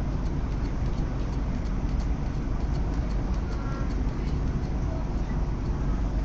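Steady rumble inside a CRH6F electric multiple unit running on the line, with faint passenger voices.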